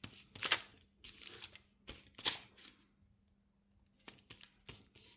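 A fingertip rubbing gesso back and forth over packing tape: short scuffing strokes, two louder ones in the first half, a pause of about a second, then a quick run of lighter strokes.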